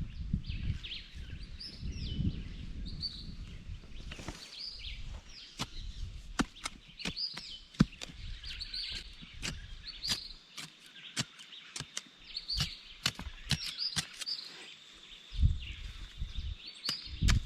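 A bird chirping over and over, about once a second, with many sharp irregular knocks through the middle and a low rumble at the start and again near the end.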